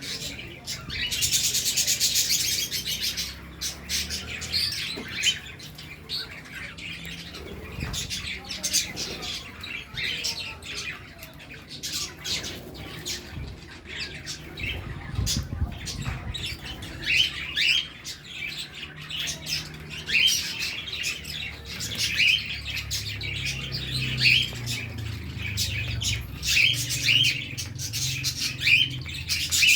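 A flock of budgerigars chattering, with rapid high chirps and short squawks overlapping all the way through and a dense burst of chatter near the start.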